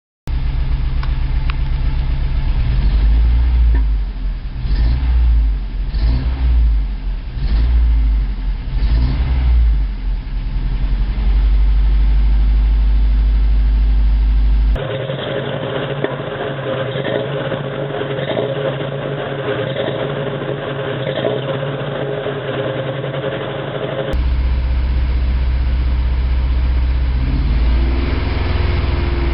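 1987 Toyota 4Runner's 22RE four-cylinder engine running rough and uneven, misfiring as if on only two or three cylinders; its level swells and dips irregularly for several seconds. The misfire comes from a cracked head and spark plugs fouled by burning coolant.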